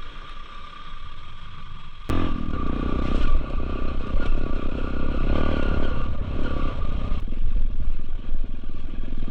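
Motorcycle engine running on a muddy off-road trail, heard muffled through a camera's waterproof case. About two seconds in it gets suddenly louder as the bike is throttled up, and it eases off again about seven seconds in.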